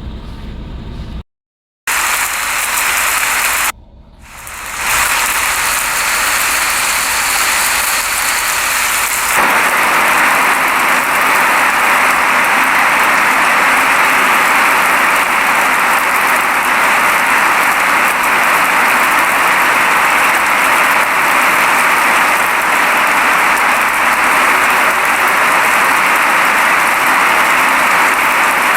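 Steady rain, a dense even hiss, with a low rumble under it at the start. About a second in the sound drops out briefly and dips again around four seconds in, as the ambience is spliced. About nine seconds in it settles into a heavier, unbroken downpour.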